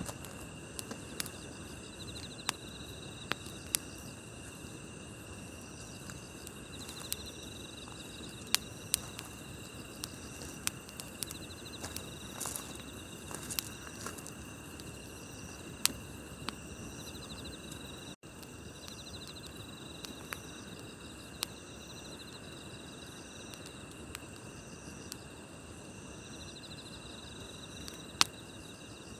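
Wood campfire crackling, with sharp irregular pops over a low hiss, against a steady chorus of night insects trilling.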